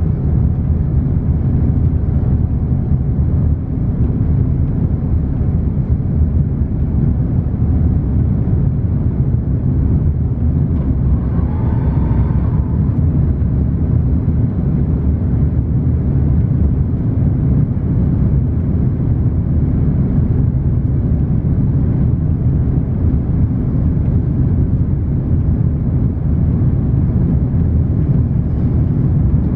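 Steady low rumble of an Airbus A330-900's Rolls-Royce Trent 7000 engines and airflow, heard from inside the passenger cabin.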